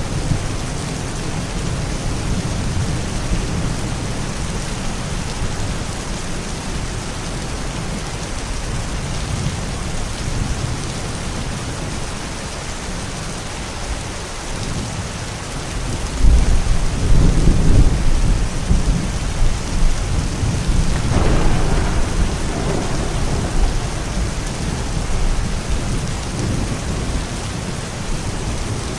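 Thunderstorm: steady rain with a low rumble of thunder throughout. About halfway through, a louder thunderclap breaks and rolls on for several seconds, then swells again briefly before settling back.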